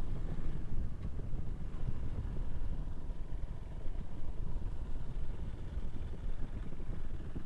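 Motorcycle running steadily at riding speed: a continuous low rumble of engine and road noise.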